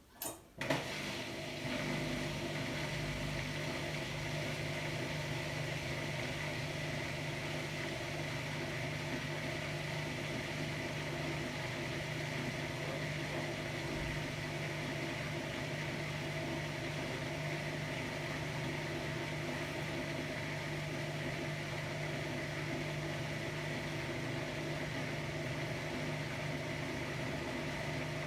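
Hotpoint-Ariston AQD972F washer-dryer: a click, then a motor in the machine starts and runs with a steady hum and a faint high whine.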